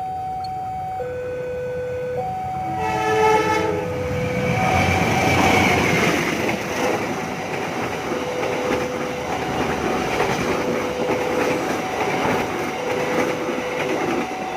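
A train sounds its horn about three seconds in and then passes, rumbling with wheel clatter, while a two-note alarm alternates steadily between a lower and a higher tone throughout.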